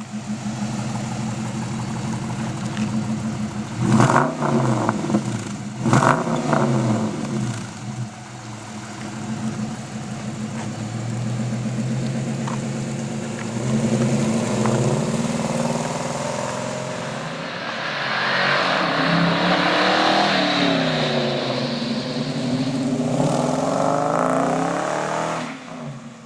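2009 Dodge Challenger R/T's 5.7-litre HEMI V8 running through a Zoomers aftermarket exhaust: idling, blipped twice about 4 and 6 seconds in, then brought up through longer, louder rises in engine speed in the second half.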